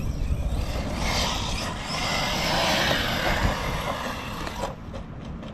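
Arrma Notorious RC stunt truck running at speed: a rushing drivetrain and tyre noise that rises about a second in and cuts off sharply near the end.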